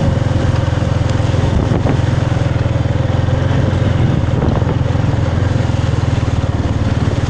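Small motorcycle engine running steadily while riding, a continuous low, even pulsing.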